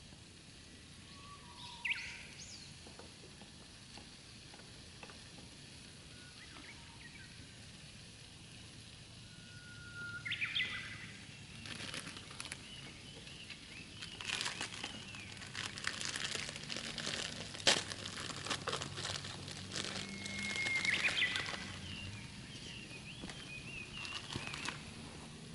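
Birds chirping a few short calls, and from about halfway a run of dense crackling clicks, the loudest a single sharp crack.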